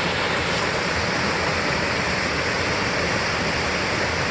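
Steady rush of water falling over a waterfall, an even roar with no breaks.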